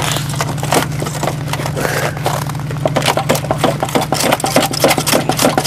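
Snow crunching and scraping in a quick, irregular run of crunches that come faster from about halfway through, over the steady low hum of an idling engine.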